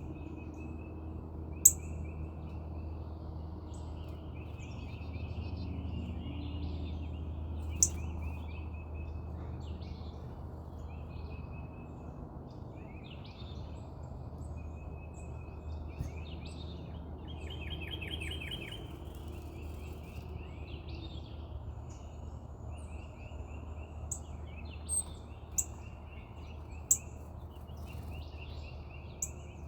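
Small birds chirping in short repeated calls throughout, over a steady low background hum, with about half a dozen sharp clicks scattered through, most of them in the last few seconds.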